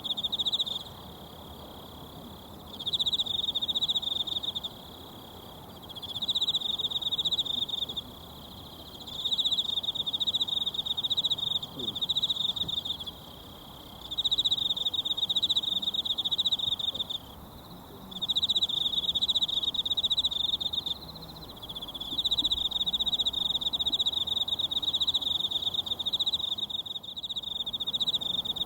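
An insect trilling loudly in repeated rapid, high-pitched phrases a few seconds long, with short breaks of about a second between them, over the low steady rush of a mountain stream.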